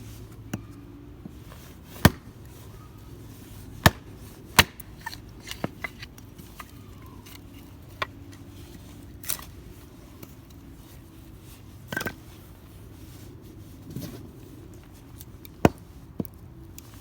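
A series of sharp, irregularly spaced knocks and clicks, like objects being handled and set down, about a dozen in all, over a faint steady low hum.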